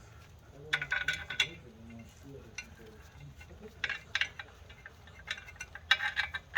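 Metal clinking and rattling of steel bolts and hand tools as the clutch pressure plate's mounting bolts are started by hand. Short bursts of clinks come about a second in, around four seconds in, and again near the end.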